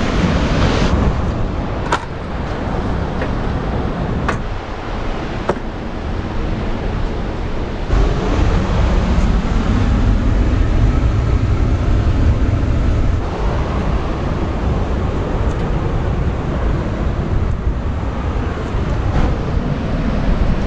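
Wind buffeting the microphone outdoors, a rushing noise with heavy low rumble that swells about eight seconds in, with a few sharp knocks in the first few seconds.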